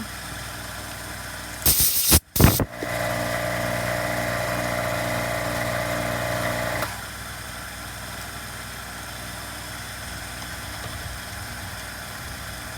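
A brief loud spray or air blast while cleaning a part. Then a motor runs with a steady hum for about four seconds and stops abruptly.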